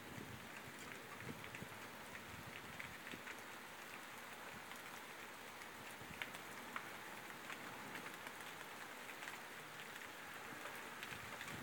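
Steady heavy rain hissing, with scattered drops tapping close by.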